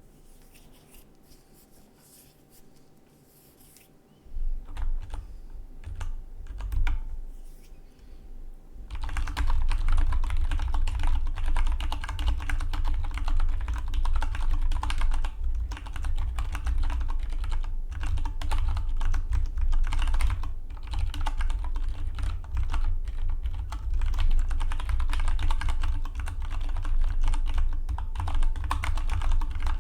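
Keystrokes on a Dygma Defy split mechanical keyboard. A few scattered keypresses break a quiet pause at the start, then fast, steady typing begins about nine seconds in.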